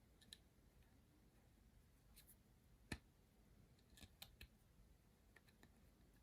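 Near silence with a few faint, scattered clicks, the sharpest about three seconds in.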